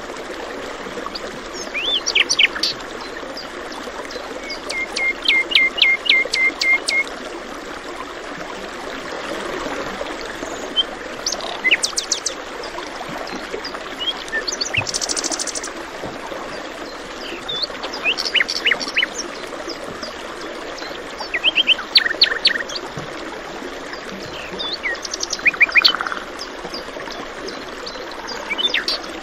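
Several birds chirping and calling in short bursts, one giving a quick run of repeated notes, over the steady rush of flowing water.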